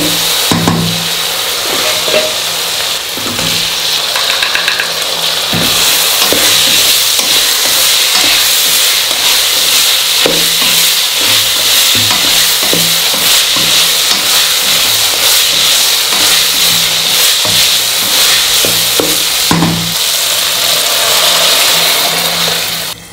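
Onion-chilli masala and chopped vegetables sizzling in hot oil in an aluminium pressure cooker: a steady frying hiss. A wooden spatula stirs and scrapes against the pot, making frequent short knocks.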